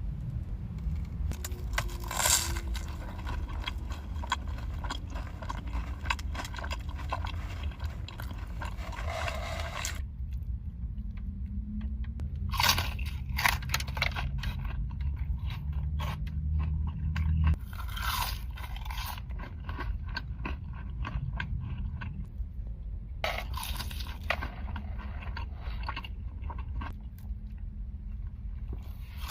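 Close-miked eating: irregular crunches and chewing as crisp fried chicken fingers are bitten and chewed, over a low steady hum. The background changes abruptly a few times as one eater's clip cuts to the next.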